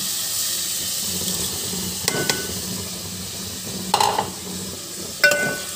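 Onion-tomato masala sizzling steadily in a metal pot as fried bitter gourd and green chilies are stirred in, with a metal spoon clinking sharply against the pot a few times.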